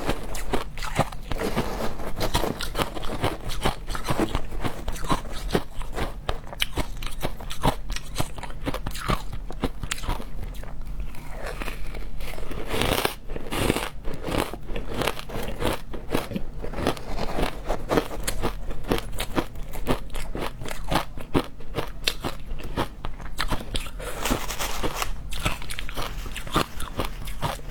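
Frozen matcha ice being bitten and chewed close to the microphone: dense, rapid crunching and crackling throughout.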